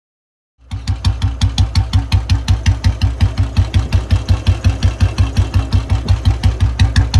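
Royal Enfield Bullet single-cylinder engine idling through its exhaust with the slow, even thump it is known for, about five or six beats a second. It comes in suddenly after a short silence, about half a second in.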